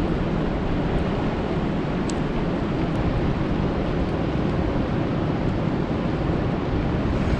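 Steady rain falling on a lake: an even, unbroken wash of noise, fullest in the low range, with a few faint drop ticks.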